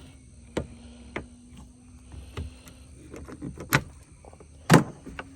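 Irregular clicks and knocks from gear being handled and moved on a kayak, with two louder knocks in the second half, the last the loudest. A faint steady hum runs underneath.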